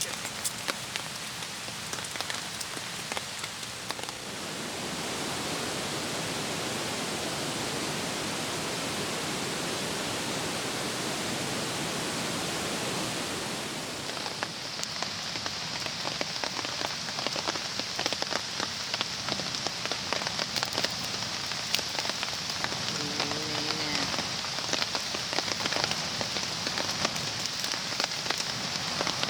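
Rain falling steadily on a tarp, a continuous hiss that about halfway through becomes dense with sharp drop ticks.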